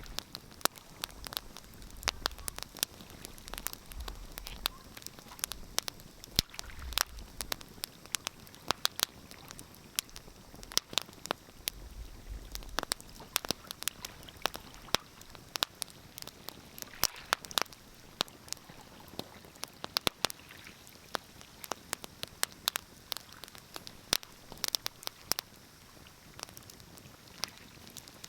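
Wood fire crackling in a fireplace, with frequent sharp, irregular pops and snaps over a soft hiss of burning.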